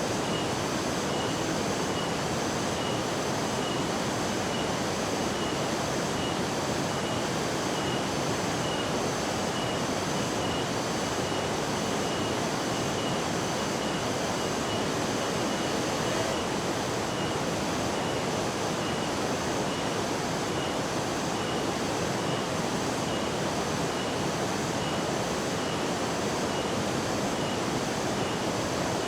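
Steady rushing roar of a large waterfall, Curug Malela, as constant noise with no change. A faint high chirp repeats regularly, about one and a half times a second, above it.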